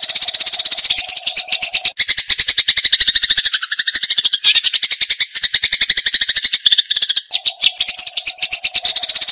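Eurasian tree sparrows giving the rapid, agitated chatter of fighting birds: a fast, even stream of short high chirps. From about two seconds in to about seven seconds in the chatter drops lower and turns more stuttering, then returns to the higher run.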